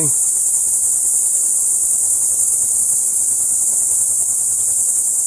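Steady, high-pitched chorus of insects, likely crickets, droning without a break.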